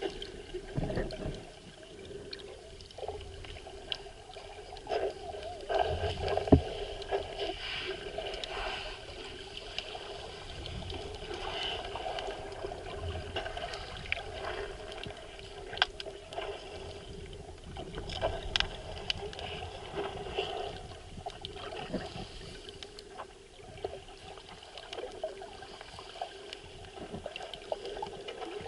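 Underwater sea sound recorded through the camera: a steady muffled wash of moving water, with many scattered sharp clicks and crackles.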